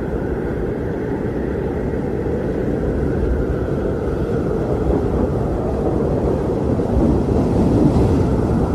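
Strong wind blowing steadily with a deep rushing rumble, swelling a little louder near the end.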